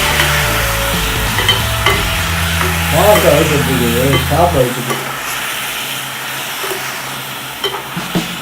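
Raw chicken sizzling in hot oil with onions as it is stirred, the spoon clicking and scraping against the pan. A low steady hum underneath stops a little before halfway, and a short wavering tone sounds about three seconds in.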